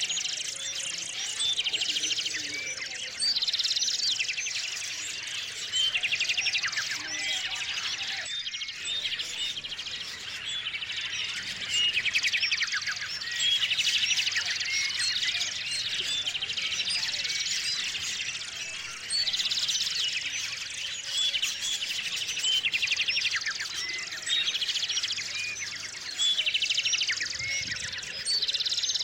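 A chorus of small songbirds singing and chirping over one another, with repeated fast trills and short high calls.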